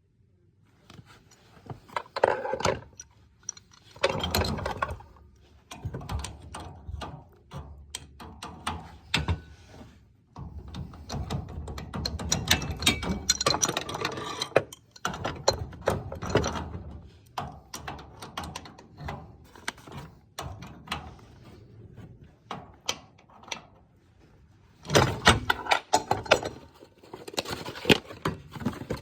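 Hand tools and metal plumbing parts being handled during work on a heating zone valve: irregular bursts of clinks, knocks and rattles, with quieter gaps between.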